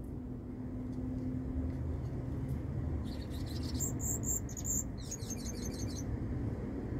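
A small bird gives a few high, thin chirps about three seconds in, followed by a quick run of notes, over a steady low rumble.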